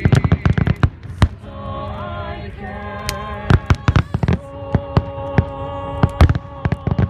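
Aerial firework shells bursting and crackling in a quick run of sharp bangs, several a second, under a voice singing long held notes with vibrato.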